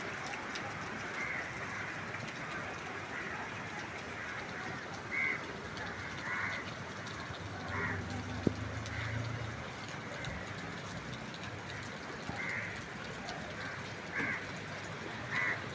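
Light rain falling, a steady hiss, with a few short calls breaking in now and then and one sharp click about halfway through.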